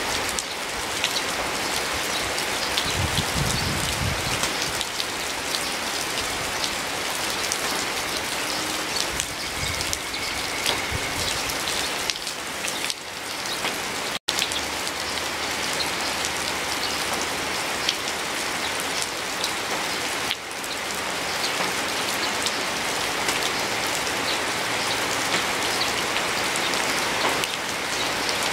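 Steady rain falling, with individual drops pattering close by. The sound cuts out for an instant about halfway through.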